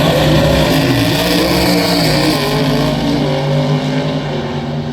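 Drag car's engine running at full throttle on a pass down the strip, its pitch shifting during the first couple of seconds and then holding fairly steady.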